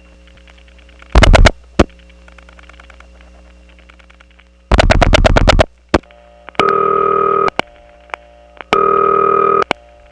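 Telephone line through a step-by-step (Strowger) exchange, heard over an interoffice trunk with a steady hum: a short burst of loud dial-pulse clicks, then a longer train of about nine, as the last two digits step the switches. Then come two short buzzing tone bursts about two seconds apart.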